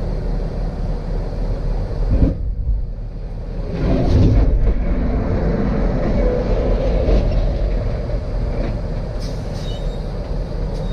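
A heavy vehicle running with a steady low rumble, swelling louder about four seconds in.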